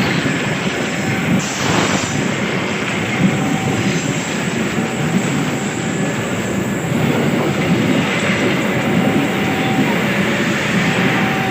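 A train passing over the level crossing: a steady loud rumble and rattle of wheels on the rails, with brief thin squeals from the wheels coming and going.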